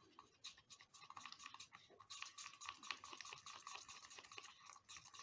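Faint, fast scraping strokes with light clicks, from a stick stirring resin in a small cup. It starts about half a second in and gets busier after about two seconds.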